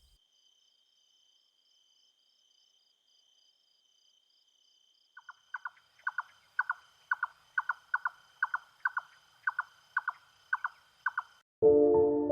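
Red-necked nightjar singing: a long rhythmic run of short repeated notes, about two or three a second, beginning about five seconds in, over a faint steady insect trill. Music cuts in near the end.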